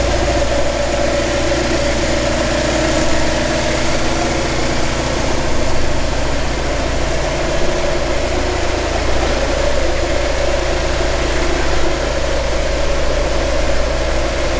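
Porsche 968's 3.0-litre inline four-cylinder engine idling steadily.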